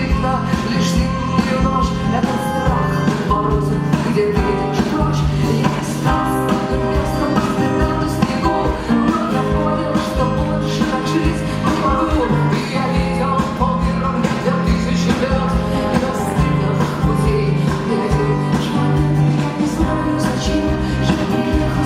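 Rock band playing live, with electric guitars, bass and drums at a steady beat and a woman singing over them.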